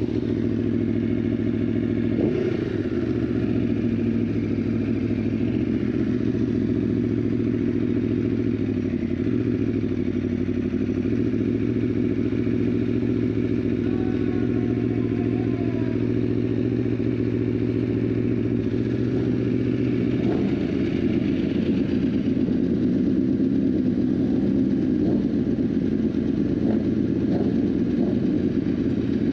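Aprilia sport bike's engine idling steadily.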